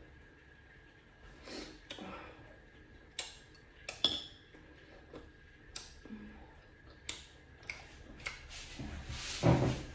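Close-up eating sounds: chewing on pork sausage, with short sharp clicks and smacks every second or so. A louder shuffling rustle comes near the end.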